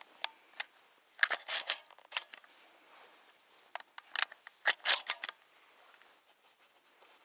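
Sharp clicks and rustles of close handling in two bursts, about a second in and again around four seconds in, with faint short high peeps every second or so.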